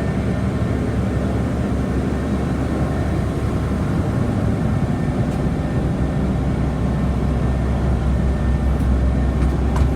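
Blue Bird bus's 5.9-litre Cummins inline-six diesel idling steadily, heard from inside the passenger cabin as a low hum over a steady rushing noise. The deep rumble swells somewhat in the second half.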